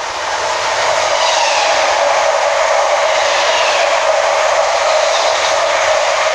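Class 325 Royal Mail electric multiple unit passing through the station at speed: a loud, steady rushing of wheels on rail that builds over the first second.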